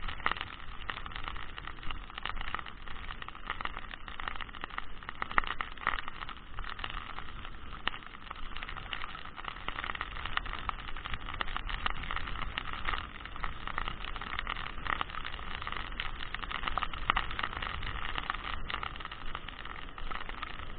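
Strong wind rushing over the camera microphone in heavy rain, with many short clicks of raindrops hitting the camera.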